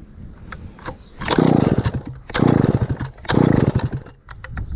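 Stihl 051 chainsaw's two-stroke engine pulled over three times on its recoil starter, each pull a loud burst of rapid clatter lasting under a second, without the engine catching and running.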